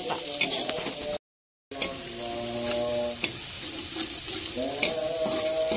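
Coarsely pounded spice paste sizzling in hot oil in a wok as it is sautéed until fragrant, with a metal spatula scraping and tapping the pan now and then. The sound cuts out briefly about a second in.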